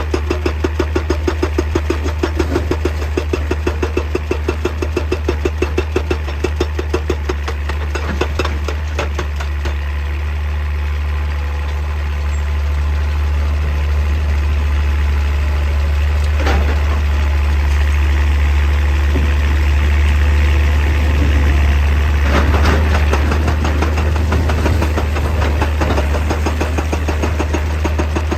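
Excavator's diesel engine running hard with a deep rumble. For the first ten seconds or so there is a fast, even hammering of several strokes a second, which then gives way to steadier engine sound with a few single loud knocks.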